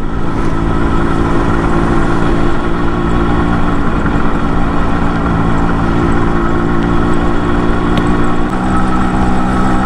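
Yamaha RX 100's two-stroke single-cylinder engine running steadily at a moderate cruise of about 40–50 km/h. It is held back because the engine has just been rebuilt.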